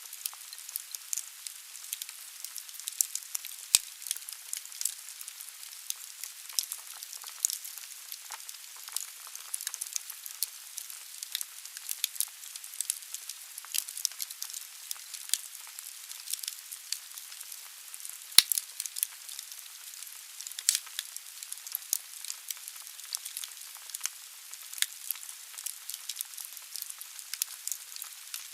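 Wood fire burning in a fireplace: logs crackling with irregular sharp pops over a steady hiss, a few pops louder than the rest.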